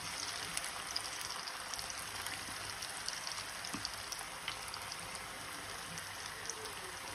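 Marinated chicken tikka pieces frying in hot oil in a pan: a steady sizzle with scattered small crackles.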